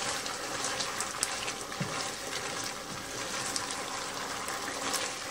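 Cubed chicken sizzling in a skillet in a honey garlic sauce thickened with starch, a steady hiss with a few light clicks.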